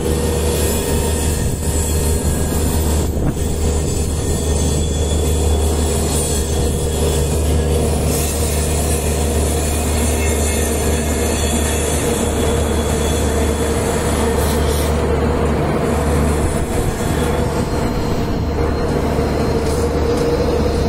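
Diesel-hauled passenger train rolling past on yard tracks: a steady low rumble with a held high squeal from the wheels.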